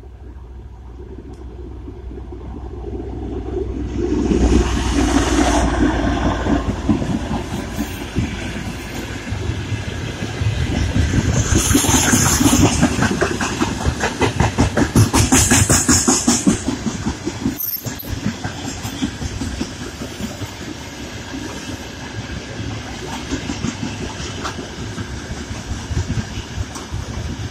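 Loaded coal wagons of a heavy freight train rolling past, wheels clacking rapidly over rail joints. Two short high-pitched bursts rise over the rolling noise about midway.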